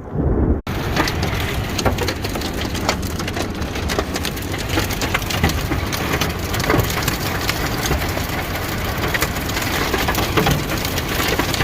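Hail and heavy rain pelting down hard: a dense, steady clatter of many sharp hits. It starts abruptly about half a second in.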